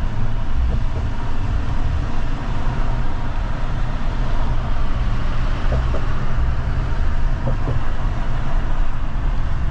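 Steady road and engine rumble heard from inside a moving truck's cabin.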